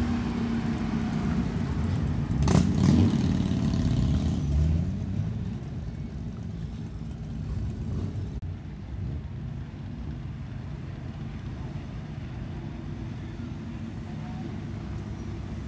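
Car engines as cars drive past slowly. The engine sound is loudest about two to four seconds in, as one car passes close with a brief rev, then settles to a steadier, quieter engine note.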